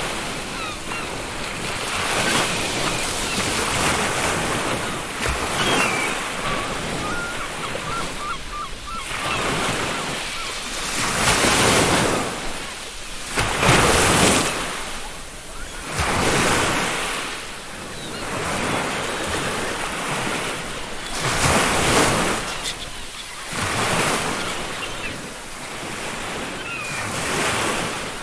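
Ocean surf breaking and washing up a beach in repeated surges every few seconds, several of them louder, with faint seagull calls in the background.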